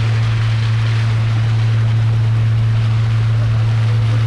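A boat's motor running steadily under way: a constant low hum, with the rush of water and wind over it.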